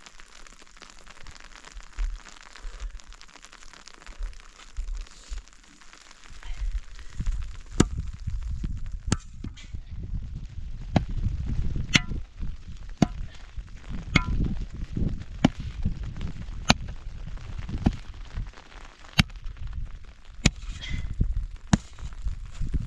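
Sharp knocks repeating about once a second over a low rumble, starting about six seconds in, after a quiet hiss.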